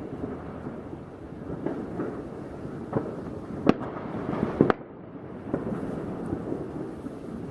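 New Year's Eve fireworks and firecrackers going off all around, a continuous rumble of crackling pops. Several sharper bangs stand out in the middle, the loudest two coming about a second apart.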